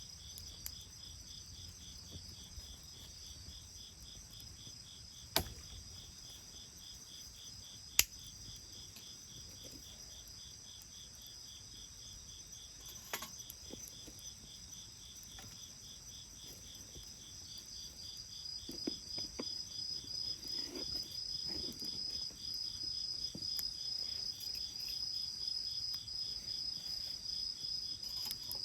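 Steady, rapidly pulsing high-pitched trills of insects, with a second trill growing louder about two-thirds of the way in. Two sharp snaps a few seconds apart early on stand out as the loudest sounds, from the bonfire.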